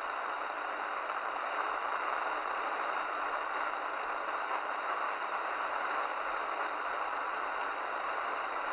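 Steady hiss of band noise from a Midland Alan 8001 CB radio's speaker, squelch open on the 27 MHz freeband between transmissions, with no signal coming through.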